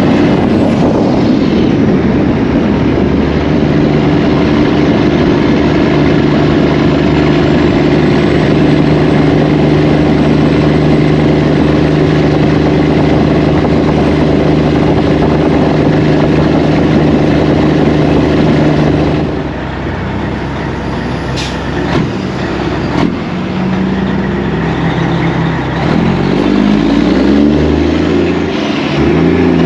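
Semi truck's diesel engine running at a steady pitch, easing off about two-thirds through, then climbing in steps near the end as it speeds up.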